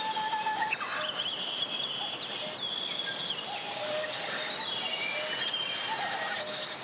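Mountain valley stream flowing steadily, with several birds singing and calling over the rush of water in short whistled notes and glides.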